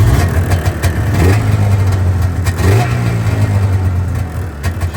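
1989 Polaris Indy 500 snowmobile's two-stroke engine running just after a cold start with no choke, steady at idle with a brief rise in engine speed about halfway through.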